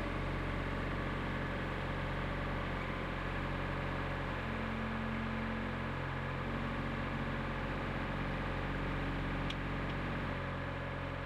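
Engine running steadily at a constant speed, an even hum with no change in revs.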